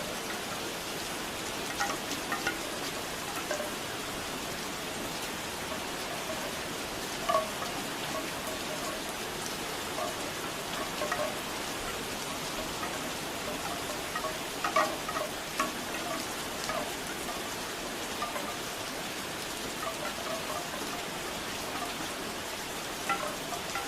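Steady rainfall, with the hollow knocks of bamboo wind chimes clacking now and then in small clusters every few seconds.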